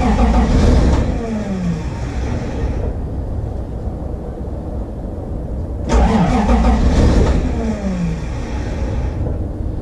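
Toyota Supra engine cranking on the starter and trying to catch after about three years unstarted. Two louder surges, one at the start and one about six seconds in, each fall away in pitch, with steady cranking between them.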